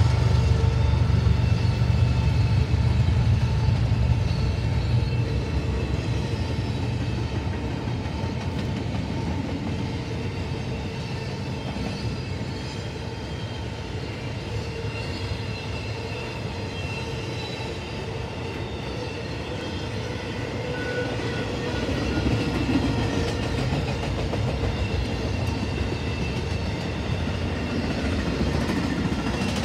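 A Norfolk Southern intermodal freight train's cars, carrying double-stack containers and truck trailers, rolling past with a steady rumble of wheels on rail. The sound is loudest at the start, eases off toward the middle and builds again later on.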